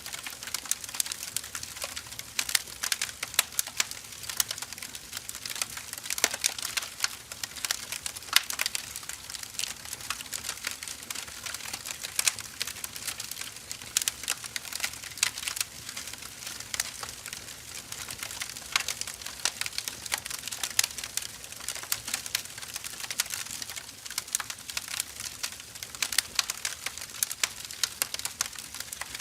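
Firewood burning, crackling with dense, irregular snaps over a steady soft hiss.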